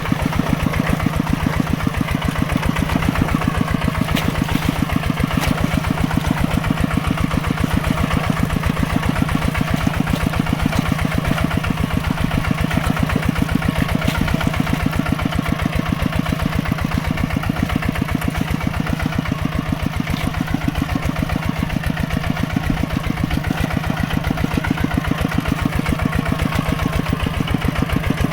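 Mini tractor's engine running at a steady speed with a rapid, even pulsing beat.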